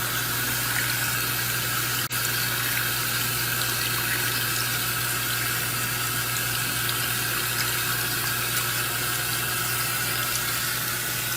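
Water running steadily into the tub of a Giantex portable washing machine through its inlet hose as it fills for a wash cycle, over a constant low hum.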